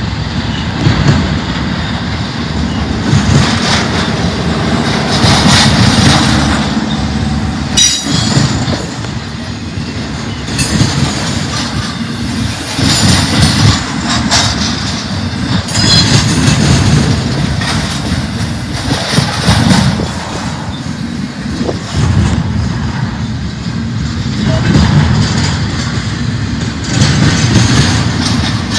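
Freight train cars rolling past with a steady low rumble and rhythmic clacking of wheels over the rails. A few brief high wheel squeals come in about a third and halfway through.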